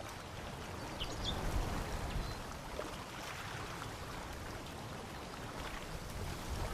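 Steady rushing water with a few faint splashes or drips.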